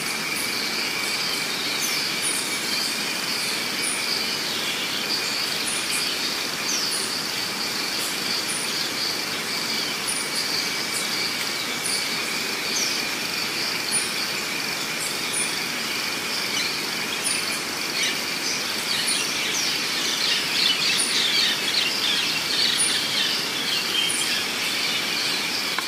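Outdoor ambience of a steady, high insect drone on two pitches, with a short high tick repeating about once a second. Small birds chirp over it, more busily over the last several seconds.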